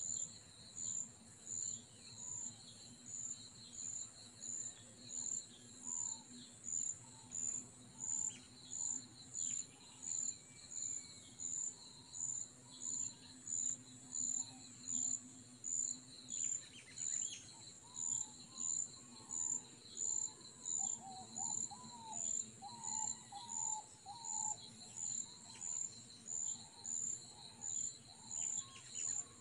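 An insect chirping in a steady, high-pitched pulse about one and a half times a second, with birds calling now and then, more often in the second half.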